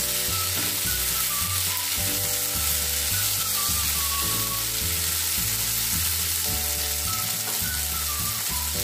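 Chopped onions, tomato and green chillies sizzling steadily in hot oil in a nonstick pan as they are stirred with a silicone spatula. Background music with a repeating bass line plays underneath.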